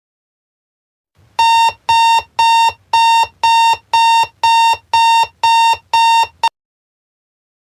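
Electronic alarm clock beeping: about ten identical high beeps, roughly two a second, starting about a second in and cutting off near the end.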